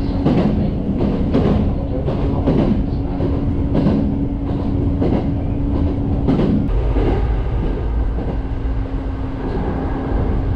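Izu Kyuko electric train running, heard from inside the carriage: wheels clacking irregularly over rail joints above a steady motor hum. A little past the middle the hum drops out for about a second and a deeper rumble takes over.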